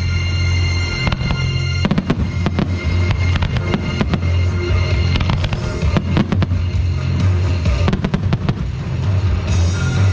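Fireworks going off in quick succession, many sharp bangs and crackles throughout, over loud music with a heavy, steady bass.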